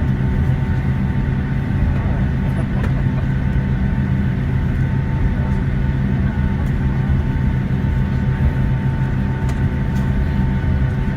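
Boeing 757-200 heard from inside the cabin while taxiing: a steady jet-engine drone with a low hum and a thin, even whine over it.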